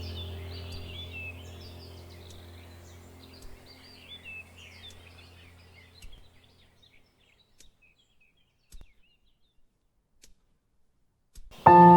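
Birds chirping and singing over soft, steady ambient music, both fading out over the first half. Then near silence with a few faint clicks, until music with held tones starts loudly near the end.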